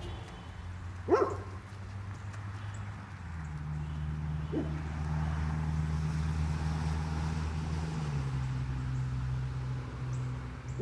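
A dog barks once sharply about a second in, then gives a softer bark or yip about four and a half seconds in, over a steady low hum.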